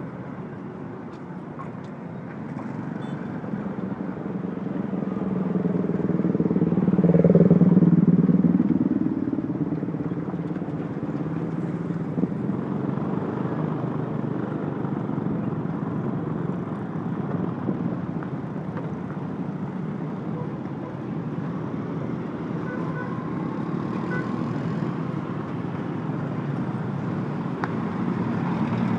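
Road traffic: a steady run of engine and tyre noise, with one vehicle passing close and loudest about seven to eight seconds in.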